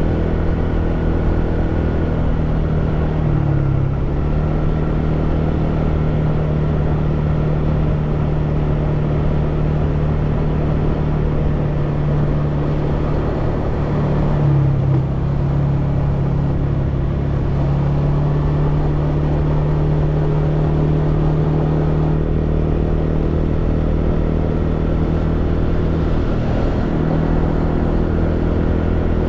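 Honda PCX scooter's single-cylinder engine running steadily, its pitch dropping and rising slightly a few times.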